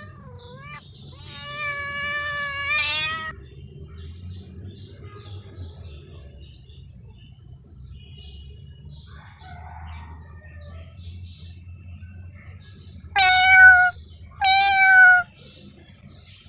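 Cat meowing: one long, drawn-out meow about a second in, then two loud, shorter meows close together near the end.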